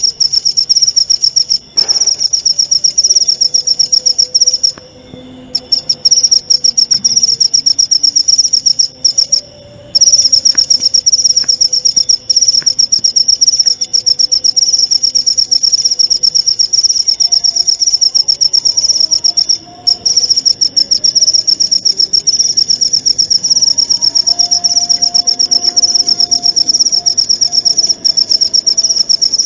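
Cricket calling in a long, continuous trill of fast-pulsing, high-pitched chirps, which breaks off briefly three times.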